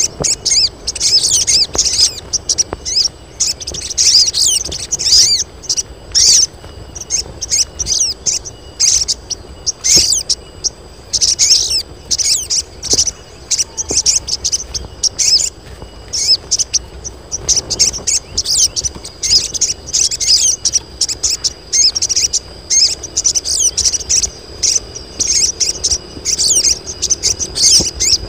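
Several female crimson sunbirds (sogon) calling together in breeding condition, a dense, continuous run of rapid, thin, high chirps and twitters, over a steady thin high tone.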